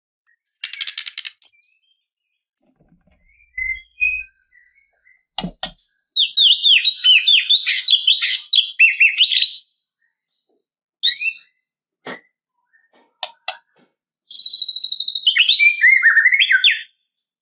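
White-rumped shama (murai batu) singing: two long runs of rapid, varied whistled phrases, with a short buzzy rattle near the start and a few single sharp notes and clicks between.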